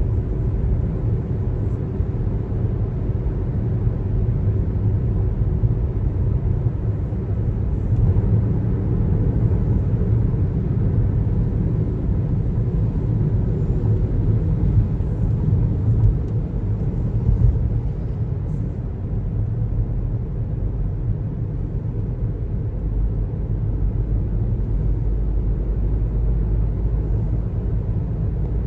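Steady low road rumble of a car driving on the highway: tyre and engine noise that holds even throughout.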